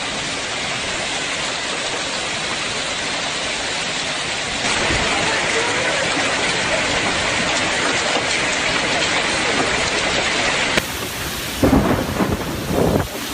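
Steady hiss of heavy rain in a storm, stepping up louder about five seconds in. Near the end it changes to gusty wind buffeting the microphone.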